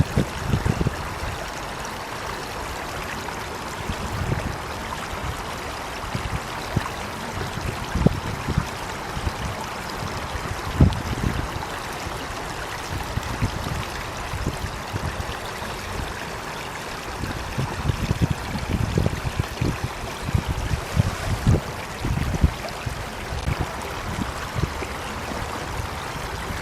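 Water running in a stream: a steady rushing, with short low rumbles scattered through it.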